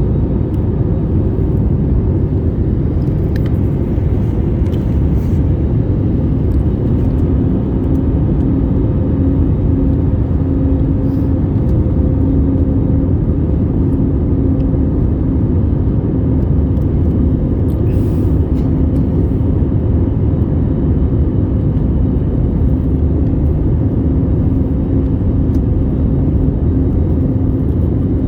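Boeing 787-8 airliner's steady rumble of engines and rushing air, with a faint even hum running through it.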